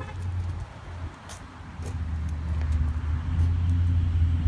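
Car engine running nearby: a steady low rumble that grows louder from about a second and a half in, with a couple of light clicks early on.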